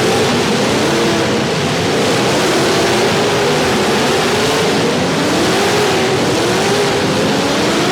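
Several demolition derby cars' engines running and revving together, their pitches rising and falling as the cars drive and push.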